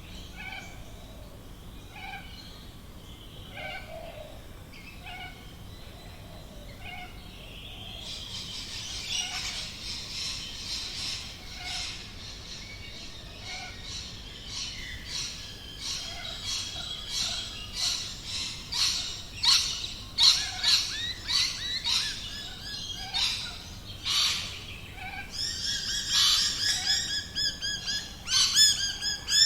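Australian bush birds calling: soft, spaced repeated calls at first, then from about eight seconds in a busy chorus of rapid chirps and trills that grows louder toward the end.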